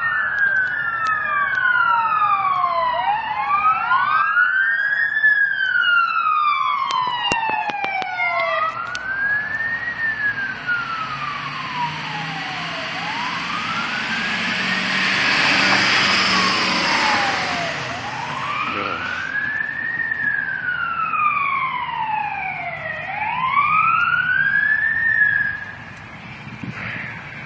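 Wailing sirens of an ambulance and a fire engine on an emergency response, two sirens sweeping slowly up and down out of step with each other. A rush of vehicle noise swells about halfway through as they go by, and the sound falls away near the end.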